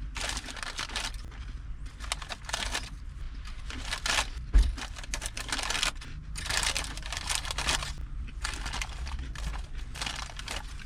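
Crinkly rustling in about six bursts of roughly a second each as something is handled, with a single thump about halfway through and a low steady rumble underneath.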